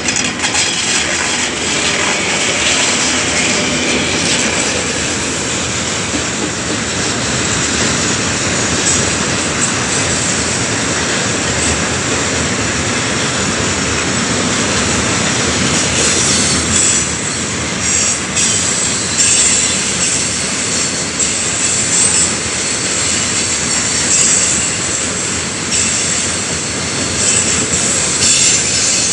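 Tank wagons of a heavy freight train rolling past at speed: a steady rumble and rattle of steel wheels on the rails. The high-pitched wheel noise grows stronger after about halfway, with scattered clacks over the rail joints.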